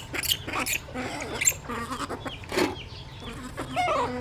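Small animals calling: a string of short high squeaks and chirps, several gliding down in pitch, with a few sharp clicks among them.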